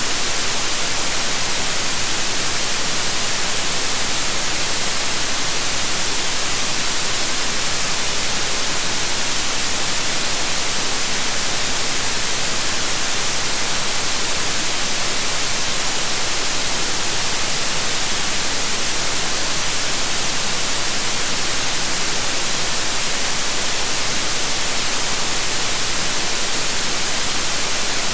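Steady white noise: an even, unchanging hiss across the whole range.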